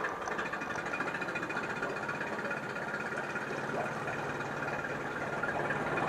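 2004 Yamaha 25 hp two-cylinder four-stroke outboard idling steadily just after being started.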